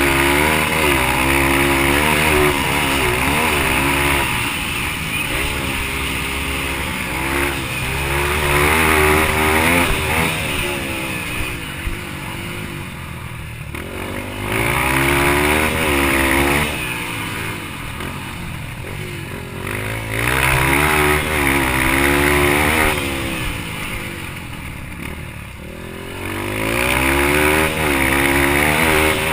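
Yamaha TT-R230 single-cylinder four-stroke dirt bike engine under race throttle, its pitch climbing repeatedly as it accelerates, then falling away three times as the rider backs off.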